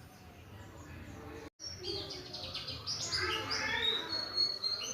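White-eye (pleci) singing a rapid, twittering song of high chirps and short gliding notes. It starts about a second and a half in, just after a brief break in the sound, and grows louder toward the end.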